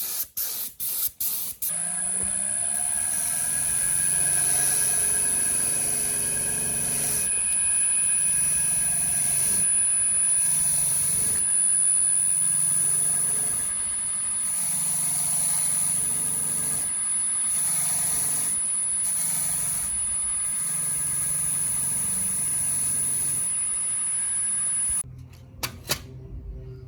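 Aerosol spray can sprayed in several short bursts, then a long steady spraying hiss with a high whine that cuts off abruptly near the end.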